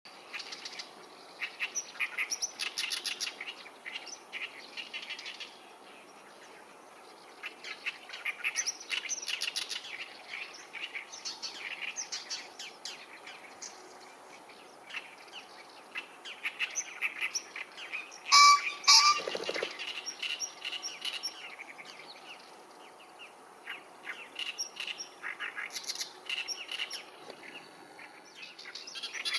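Small songbirds chirping all through. About two-thirds of the way in, a male Japanese green pheasant gives its loud two-note crowing call, the territorial and courtship call, followed at once by a brief low whirr of wing drumming.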